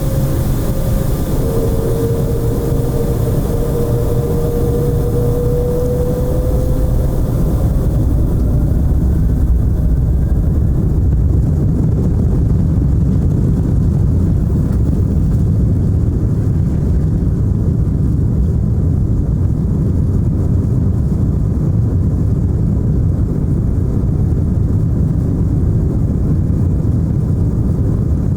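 Airliner's engines at take-off power: a loud, steady low rumble with a faint whine in the first few seconds. The high hiss fades after about eight seconds while the low rumble carries on.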